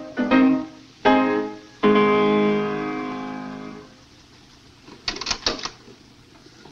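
Piano accompaniment ending the song: a few short chords, then a final chord held and dying away over about two seconds. A few soft clicks follow about a second later.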